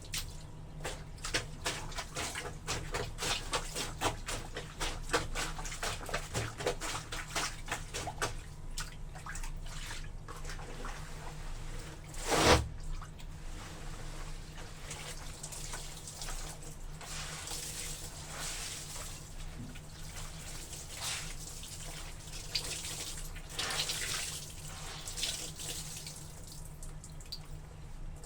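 Wet laundry sloshing and splashing in a tub of water as it is worked, with quick repeated squelching splashes for the first several seconds and a single loud thud about twelve seconds in, followed by slower sloshing and pouring of water.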